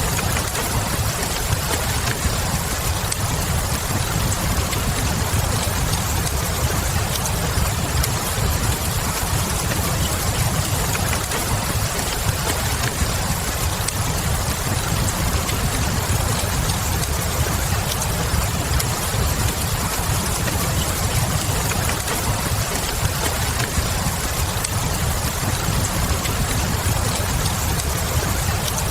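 Steady rain with a crackling wood fire, scattered small crackles over an even hiss and a deep, constant low rumble.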